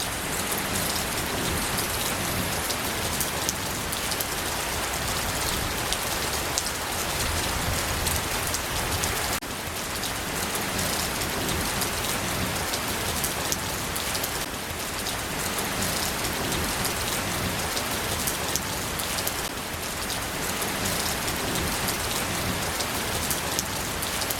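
Steady, heavy rain falling, a dense hiss full of small drop ticks; the level dips slightly about nine seconds in and then holds steady.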